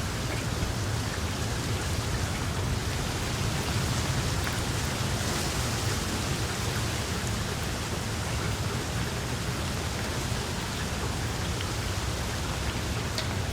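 Small wood fire crackling in a fireplace: a steady dense hiss of fine crackles with an occasional sharper pop.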